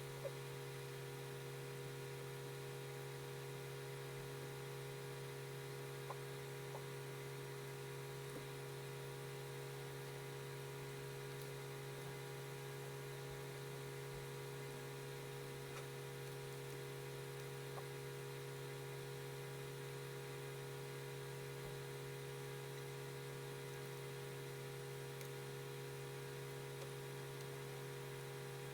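Steady electrical hum with faint hiss, broken only by a few faint ticks.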